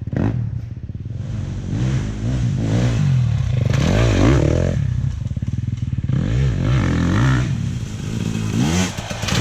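Dirt bike engine running hard on a trail ride, revs rising and falling repeatedly as the throttle is opened and closed, with some rattle and clatter.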